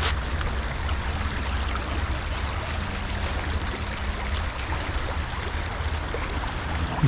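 Creek water running steadily, with a low rumble underneath.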